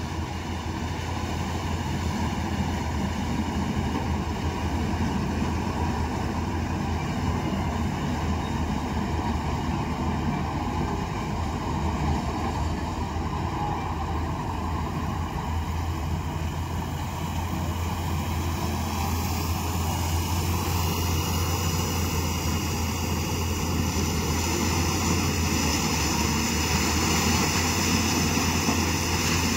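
Harvester machinery running steadily under load while harvesting maize: a continuous low engine hum with the whine of the working parts, rising slightly in pitch about two-thirds of the way through.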